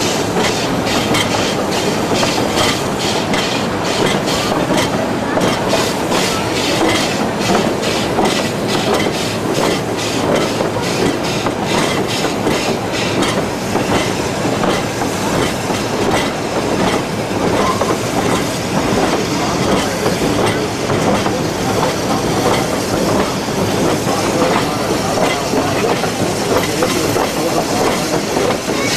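Narrow-gauge excursion train's open passenger car rolling along the track, wheels clattering steadily over the rails, with regular clicks through the first half.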